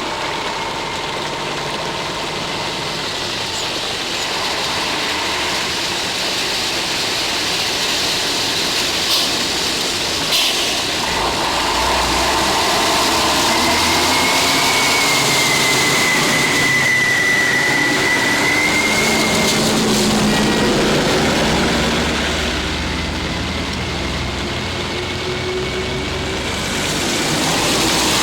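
Vehicle engine running steadily under a noisy rumble that grows louder about eleven seconds in. A thin, slightly wavering high tone sounds for several seconds in the middle.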